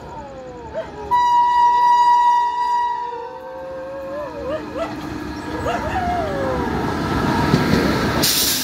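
Electric locomotive sounding a single horn blast of about two seconds, then the rumble of the express train building as it runs past close by. A sudden rush of noise comes near the end as the locomotive and coaches go by.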